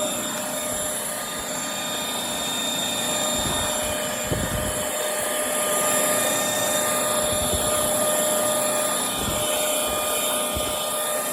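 Bissell Featherweight stick vacuum's small two-amp motor running steadily with a constant whine over a rushing hiss as it sucks up confetti and potato chips from a hard floor, with a few dull low bumps around the middle and near the end.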